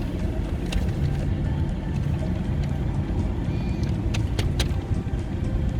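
Car driving, a steady low engine and road rumble, with a few short clicks about a second in and twice near the end.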